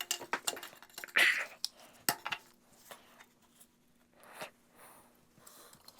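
Scattered light clicks, scrapes and rustling of hand tools and gloved hands working on an engine part, with a faint steady hum joining about two seconds in.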